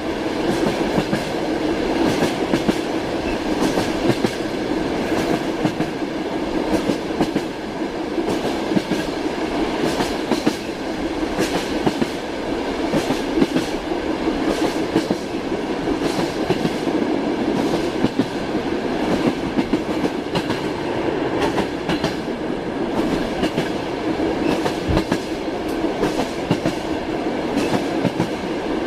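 Train wheels clattering over the rail joints at a steady running speed: repeated sharp clacks over a continuous rumble of the moving carriage.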